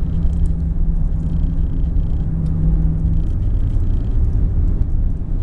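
Vehicle running with a steady engine hum that drops in pitch about three seconds in, under a loud low rumble of strong wind.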